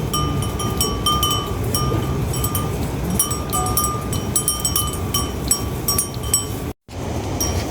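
A small metal bell clanking irregularly, several ringing strikes a second, like a bell on a moving animal, over a steady low rushing noise.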